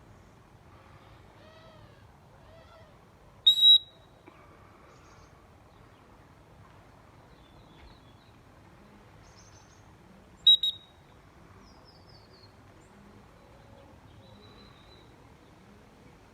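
Two short, loud, high-pitched whistles about seven seconds apart, each a quick double note, over faint birdsong and light background noise.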